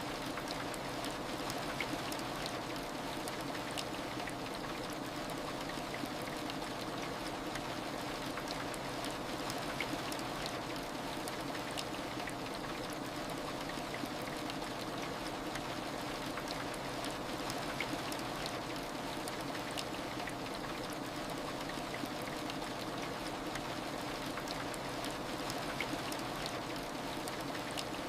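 Steady heavy rain: an even hiss of rainfall with fine drop ticks scattered through it, and a faint steady hum underneath.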